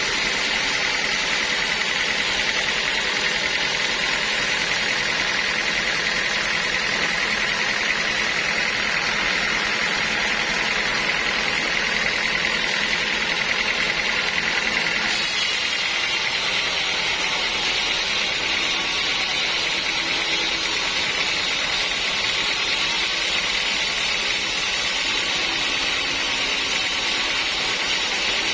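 Sawmill saw machinery running steadily, a continuous mechanical hum with a high whine over it; the tone shifts slightly about halfway through.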